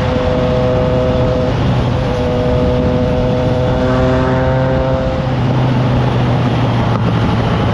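Triumph Trident 660's inline three-cylinder engine through a FireTong aftermarket exhaust, running at steady cruising revs while riding, with wind noise over the microphone.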